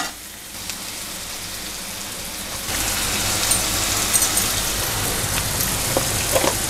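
Sliced onions and green chilli sizzling as they fry in hot oil in a pan. The sizzling grows louder about two and a half seconds in and then holds steady.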